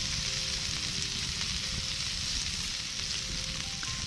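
Chicken sizzling steadily over an open campfire: a dense hiss with fine crackling as fat and juices hit the heat.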